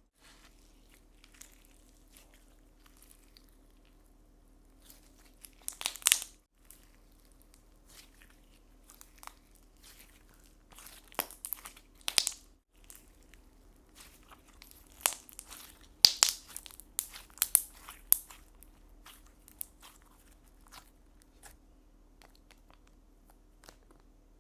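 Slime being squeezed, pressed and stretched by hand, giving off sharp crackling, clicking and crunchy popping sounds. They come in clusters, loudest about six seconds in, around twelve seconds and between fifteen and eighteen seconds, with quieter scattered clicks in between.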